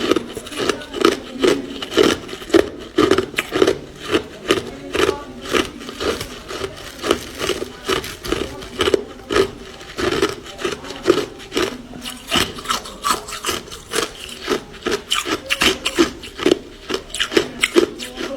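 Ice being chewed close to the microphone: a steady run of sharp, gritty crunches, a few a second.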